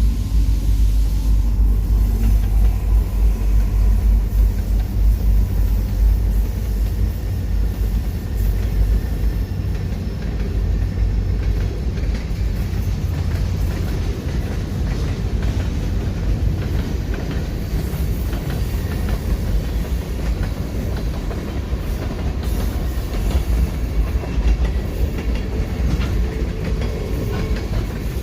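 Train passing close by: a loud, steady rumble, heaviest in the deep low end, with many short knocks running through it.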